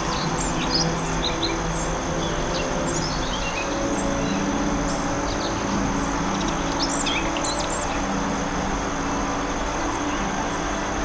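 Forest ambience: many small birds chirping and calling, one singing a quick run of notes that falls in pitch about three seconds in. Beneath them runs a steady rushing background with a steady high insect-like whine.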